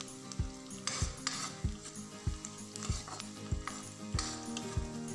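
Sliced onions and dried red chillies sizzling in hot oil in a metal kadai, stirred with a metal spatula that scrapes and knocks against the pan in a steady rhythm of about three strokes every two seconds.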